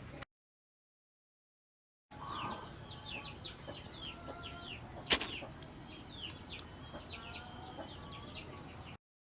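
Birds chirping, many short rapid chirps one after another, starting after about two seconds of silence. About five seconds in there is a single sharp knock, the loudest sound.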